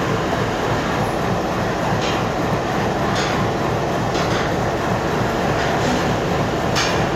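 Train running on the rails: a steady rumble of wheels and wagons, with a sharper click of wheels over rail joints about once a second.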